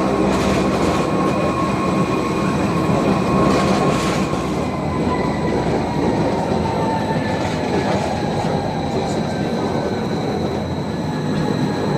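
A train running, loud and steady, with a high thin tone whose pitch slowly falls over the seconds.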